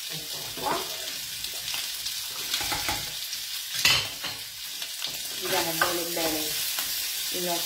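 Diced guanciale sizzling steadily in a frying pan as its fat renders slowly over low heat. Occasional kitchen clinks, with a sharp knock about four seconds in.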